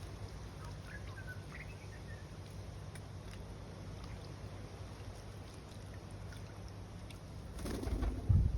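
Steady low outdoor rumble with a few faint bird chirps about a second in, then a gust of wind buffeting the microphone near the end, the loudest part.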